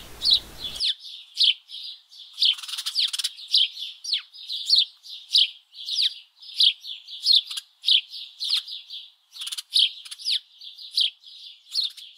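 A small bird chirping over and over, short high chirps coming a little under two a second.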